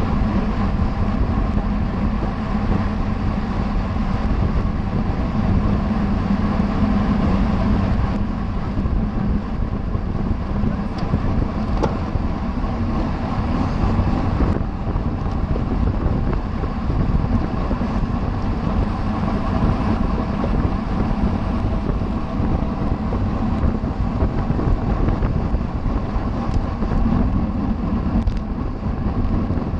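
Steady wind rush and rumble on the microphone of a camera riding on a racing bicycle at speed.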